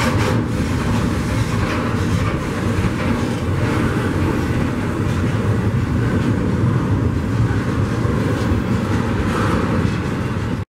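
Double-stack intermodal well cars loaded with shipping containers rolling past at close range: a steady rolling rumble of steel wheels on rail, heaviest in the low end.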